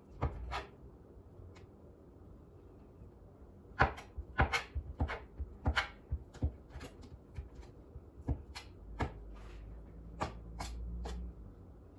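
Knife chopping rotisserie chicken on a cutting board: irregular knocks, sparse at first and coming a few a second from about four seconds in.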